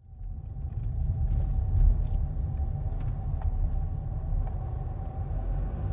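Steady low road and engine rumble inside a moving car's cabin, fading in at the start.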